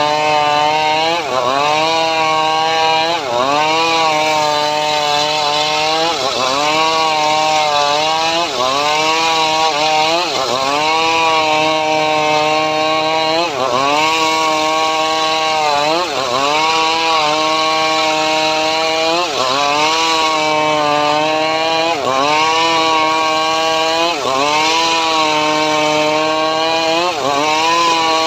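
Engine-driven homemade sawmill rig (gergaji srekel) running as it cuts sengon timber. The engine's pitch drops sharply under load and climbs back about every two seconds, in a steady repeating cycle.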